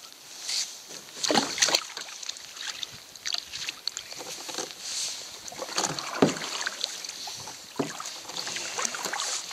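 Light rain falling, a steady high hiss with irregular taps and splashes of drops scattered through it.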